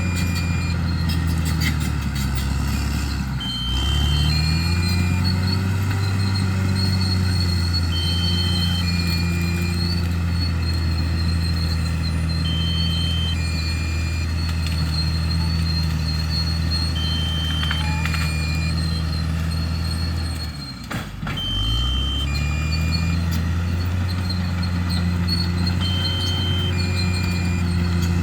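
Bulldozer's heavy diesel engine running steadily under load, its pitch sagging and recovering twice, a few seconds in and again about two-thirds through. Over it, a pair of short electronic beeps, a higher one then a lower one, repeats every four to five seconds.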